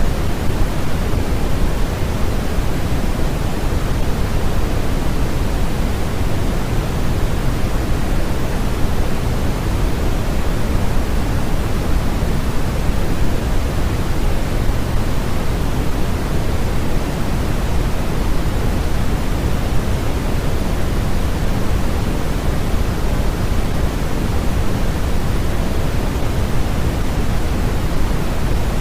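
Steady, unchanging synthetic noise of the kind played for sleep, heavier in the low end than the high, so it sounds like a deep pink-noise hiss.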